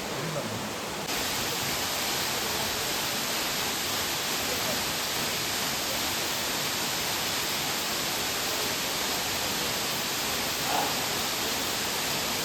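Waterfall: a steady rush of falling water that gets louder and brighter about a second in.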